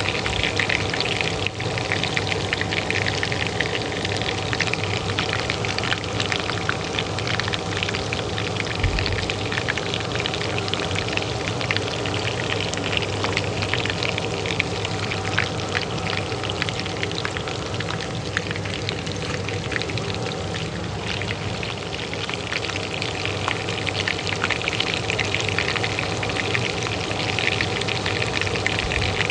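Oil sizzling and crackling steadily in a pan, with many fine pops, over the steady hum of a kitchen range hood fan.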